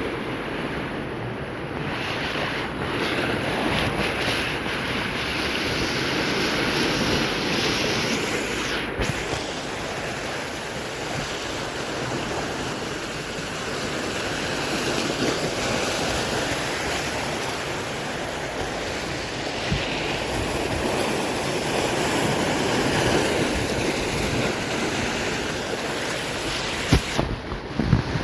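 Heavy swell surf crashing and washing on the shore, a dense wash of water that swells and eases in slow surges every several seconds, with wind buffeting the microphone. A few sharp knocks near the end.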